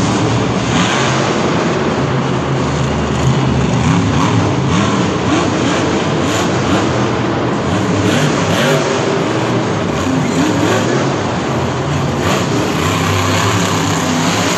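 Monster truck engine revving hard, its pitch rising and falling repeatedly over a loud, even din.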